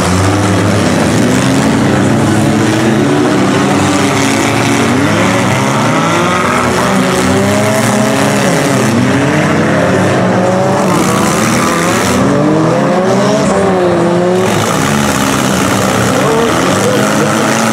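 Engines of several small demolition-derby cars revving together, their pitches rising and falling over one another as the cars accelerate and back off.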